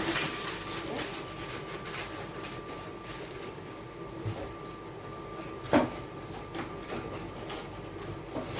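A steady mechanical hum with a thin constant whine, and one sharp click or knock about six seconds in.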